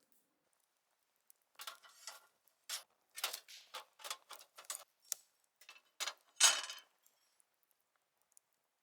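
Cooking gear being handled: a string of short clatters and scrapes, irregular, with the loudest one about six and a half seconds in.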